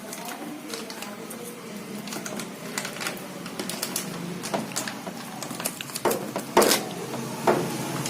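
Insulation tape being pulled off the roll and wrapped onto washing-machine wiring: irregular crackles and clicks of handling, with a few louder short rasps of tape peeling off near the end.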